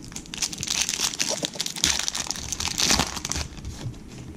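Crinkling of a trading-card pack's foil wrapper as it is handled and opened, a dense crackle lasting about three seconds that stops near the end.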